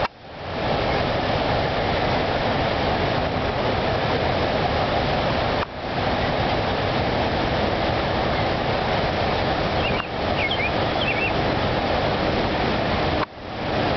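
Steady rush of falling water, with a few faint high bird chirps about ten seconds in. The noise cuts out briefly several times.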